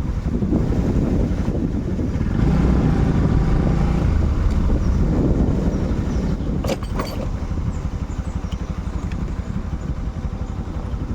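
Motorcycle engine running while riding, with wind on the microphone; the engine note gets louder for a couple of seconds about two seconds in, and there is a sharp click about halfway through.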